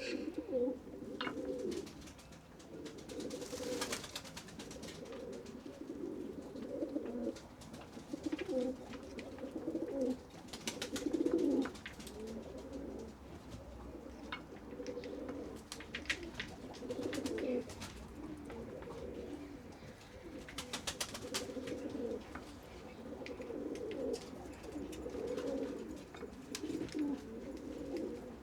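Several pigeons cooing in overlapping low, pulsing calls, with scattered sharp clicks now and then.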